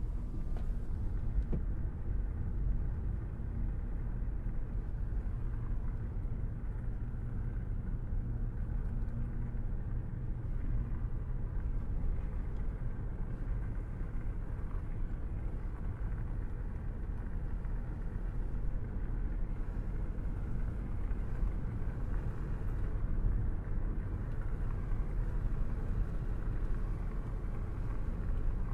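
A car driving along a road: a steady low rumble of engine and tyres that does not change.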